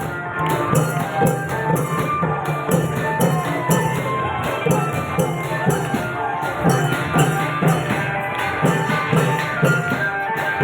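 Klong yao long-drum ensemble playing a quick, steady beat, with small cymbals clashing on each stroke over the drums and some held melodic notes.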